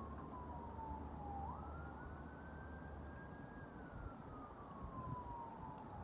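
Faint emergency-vehicle siren wailing: a single tone that jumps up quickly, holds, then slides slowly down over a few seconds, over a steady rumble of wind and waves.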